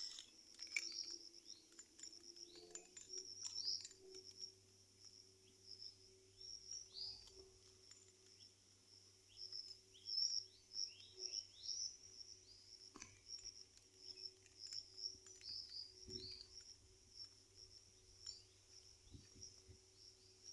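Faint birds chirping: many short, high notes, a lot of them sliding down in pitch, repeating throughout. A faint steady low hum runs underneath, with a soft thump now and then.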